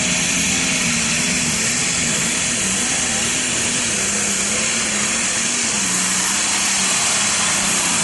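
Diesel super stock pulling tractor running at full throttle under load during a pull: a loud, steady rushing hiss of turbochargers and exhaust, with an engine note that wavers up and down.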